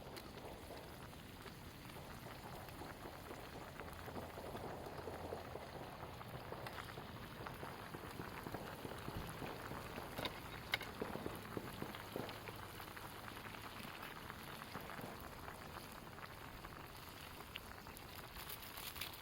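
Cooking over a campfire: a steady sizzling, bubbling hiss with scattered small crackles and pops. A few sharper pops come about ten to twelve seconds in.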